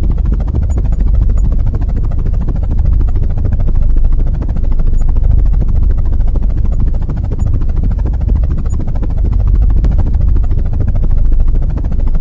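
Loud, steady low rumble of a heavy vehicle engine running, swelling and easing slightly.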